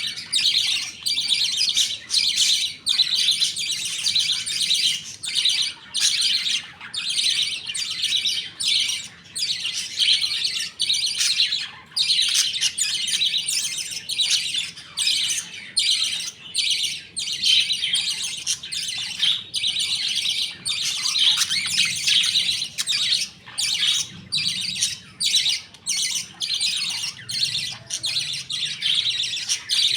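A colony of budgerigars chattering and chirping continuously, many birds calling over one another with high warbling chirps and squawks.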